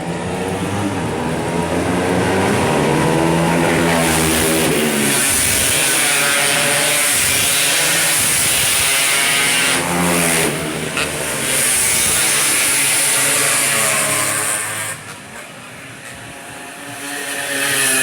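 Motorcycle engines revving, their pitch rising and falling as they accelerate and pass. The sound eases off briefly about fifteen seconds in, then builds again.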